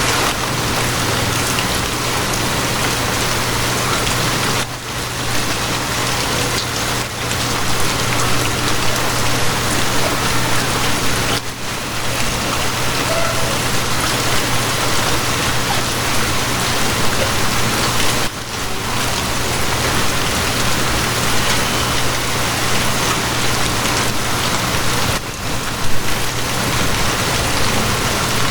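Steady heavy rain, a dense even hiss, with a faint low hum underneath. The rain dips briefly a few times.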